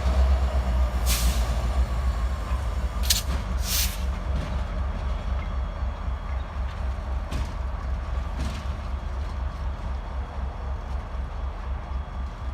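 Freight train with its diesel locomotive rumbling steadily and slowly fading, with a few brief sharp noises from the train over the first eight or nine seconds.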